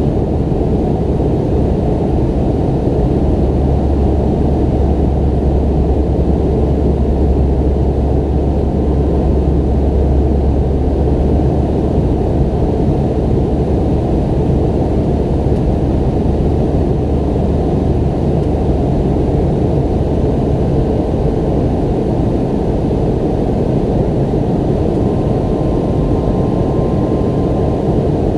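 Cabin noise of a McDonnell Douglas MD-90's rear-mounted IAE V2500 jet engines, heard from a seat near the tail: a steady roar with a deep rumble that eases off about halfway through.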